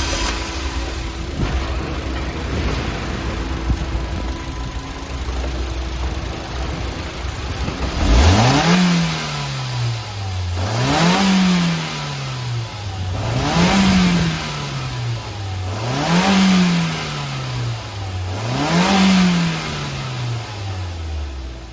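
Mazda Bongo truck's 1.8-litre L8 four-cylinder petrol engine idling steadily, then revved five times, each rev rising and falling back at an even pace about every two and a half seconds. It runs down near the end.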